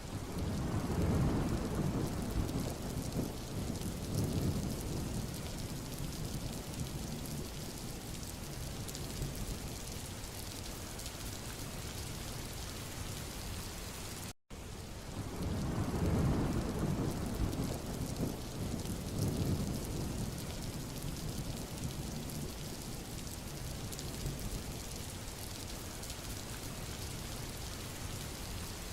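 Steady rain hissing on a road surface. About a second in, a low rumble swells up and fades over several seconds. Near the halfway point the sound cuts out for a moment, and then the same rain and rumble start over.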